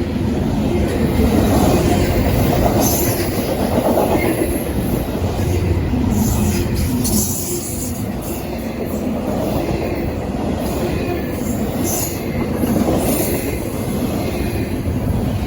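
Freight train rolling past at close range: a steady heavy rumble of railcars and wheels on the rails, with clickety-clack and a few brief high wheel squeals.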